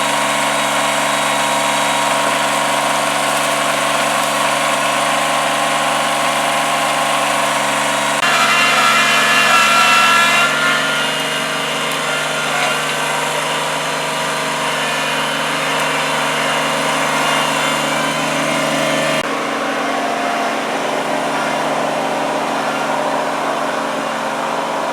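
An engine running steadily. Its note changes about eight seconds in, gets louder and higher for a couple of seconds, and shifts again near nineteen seconds.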